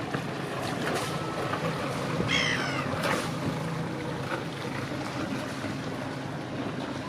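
Boat engine running steadily at low revs as a cruiser passes, with a short high-pitched call or squeal about two and a half seconds in.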